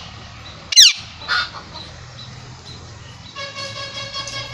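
Parrot calling: a loud, shrill call falling in pitch about a second in, a short rasping squawk just after, then a longer steady nasal call from about three and a half seconds in.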